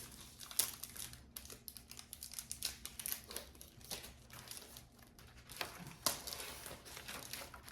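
Snack packaging crinkling and crackling in irregular bursts as it is handled and opened.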